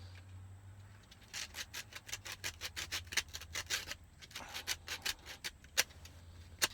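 Sandpaper scrubbing the corroded metal contacts of a car's dome light switch: quick back-and-forth strokes, about six a second, in two runs, followed by a couple of sharp clicks near the end.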